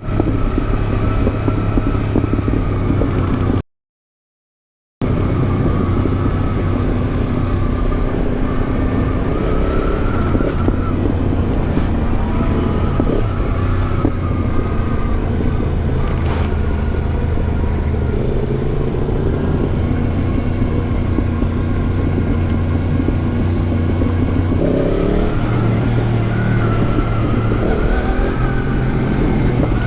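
Yamaha MT-10's crossplane inline-four running through an aftermarket Arrow exhaust while riding, its note mostly steady with shifts in pitch and a rise near the end. The sound cuts out completely for about a second and a half near the start.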